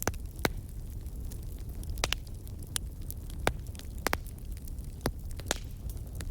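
Wood fire burning in a fireplace: a steady low rumble with sharp, irregular crackles and pops from the burning logs, roughly two or three a second.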